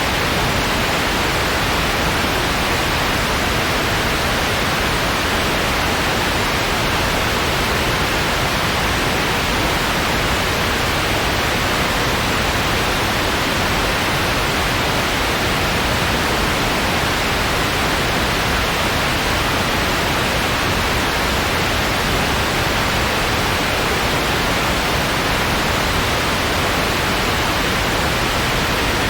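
Steady white noise: an even, unchanging hiss with no pauses, tones or events.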